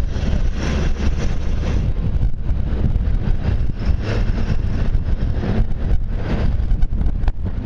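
Wind buffeting the microphone: a loud, uneven low rumble that surges and eases every second or two.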